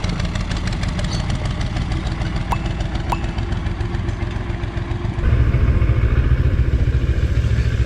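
Motorcycle engine running steadily, growing louder and deeper about five seconds in.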